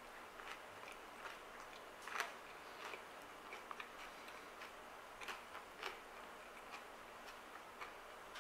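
Chewing a mouthful of Kashi GoLean Chocolate Crunch cereal: irregular crisp crunches and clicks, the sharpest about two seconds in.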